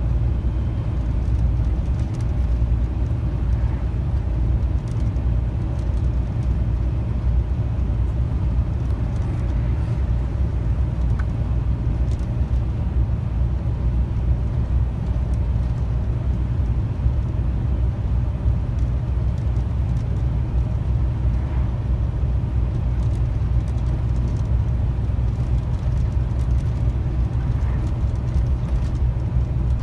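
Steady, unchanging drone of a long-haul truck's diesel engine and tyre noise while cruising along the highway.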